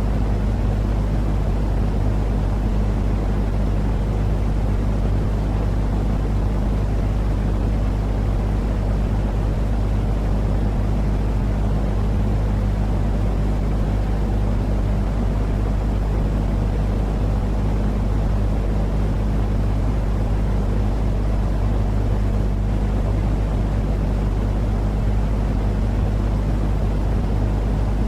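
Steady, unchanging deep noise with a low hum running under it: a continuous white-noise track played to lull a baby to sleep.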